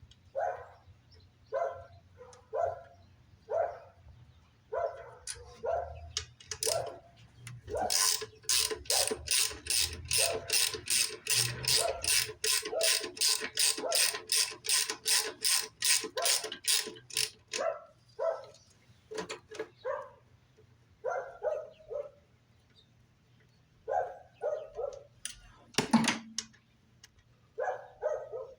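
Ratchet wrench clicking quickly and evenly, about four clicks a second for around ten seconds in the middle, with slower scattered ratchet and tool clicks before and after. A single loud knock comes near the end.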